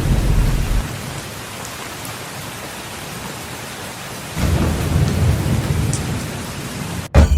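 Steady rain with rolling thunder: a low rumble fades out about a second in, a second roll builds about four and a half seconds in, and the sound cuts off abruptly just before the end.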